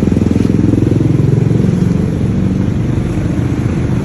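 Heavy engine running with a rapid low pulsing beat, easing a little after about two seconds.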